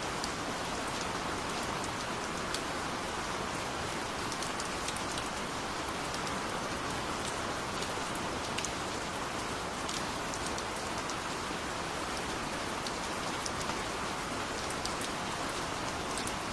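Steady, gentle rain falling, a continuous hiss with scattered individual drops ticking through it.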